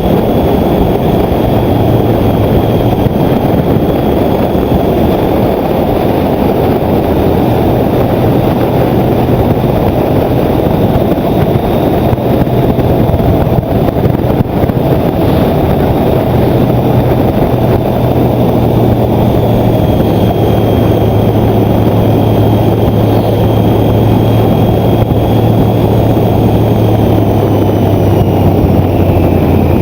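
Motorcycle being ridden at a steady road speed: dense wind rush over the microphone with a steady engine drone underneath, the engine note dropping slightly near the end.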